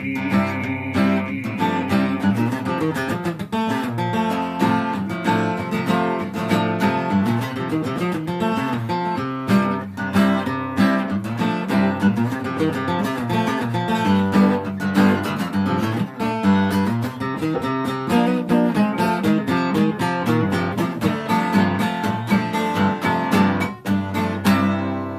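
Acoustic guitar played solo, picked and strummed in an unbroken instrumental passage.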